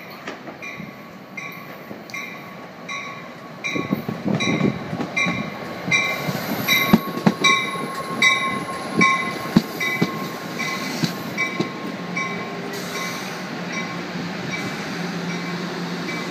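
NJ Transit electric-locomotive-hauled commuter train arriving and rolling past the platform. The rumble builds about four seconds in, with sharp wheel clicks over rail joints as the locomotive and first cars pass, then settles into a steady rumble as the cars roll by. A high ding repeats about twice a second over it.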